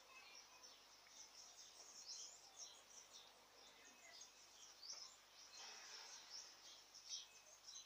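Faint chirping of small birds: many short, high calls one after another, with a brief rustle a little over halfway through.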